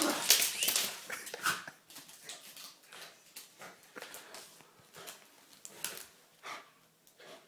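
Dog whimpering excitedly, loudest in the first second, then fainter short whimpers and scattered clicks.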